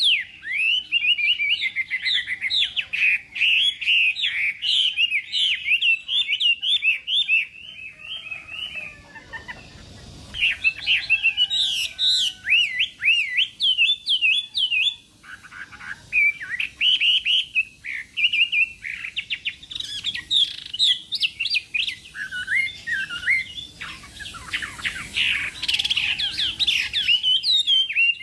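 A Chinese hwamei (họa mi) in full song: a long run of rapid, varied whistled phrases and trills, broken by a short lull about a third of the way in and another brief gap a little past halfway.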